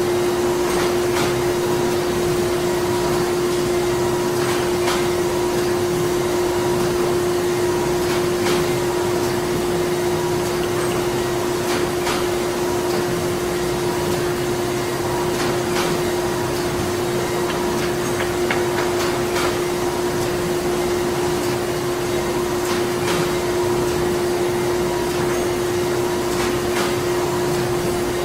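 Printing-factory machinery running steadily: a constant rush of machine noise with a steady drone and a fainter higher whine, broken by scattered light clicks and ticks at irregular intervals.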